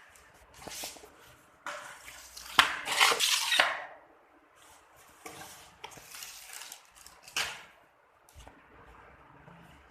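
Firecracker boxes and packets being handled: irregular rustling and clattering, loudest about three seconds in, with a short click near the end.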